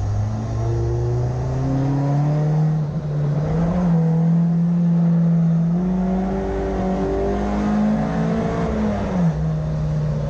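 Rear-wheel-drive race car's engine heard from inside the cabin, accelerating hard with its pitch climbing over the first few seconds, holding, then climbing again before dropping sharply about nine seconds in.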